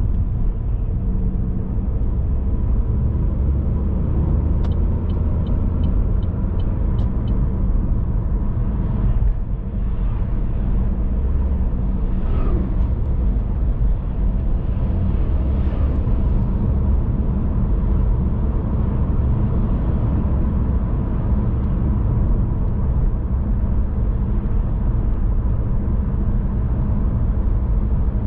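Car driving along a road: a steady low rumble of tyres and engine. About five seconds in, a quick run of about eight light ticks.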